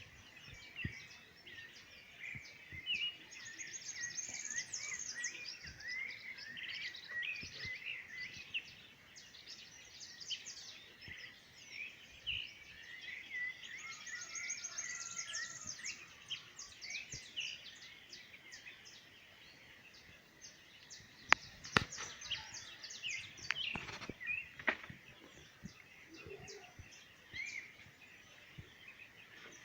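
Several birds calling and chirping together, with a rapid high trill heard twice. A few sharp clicks or knocks stand out about two-thirds of the way through.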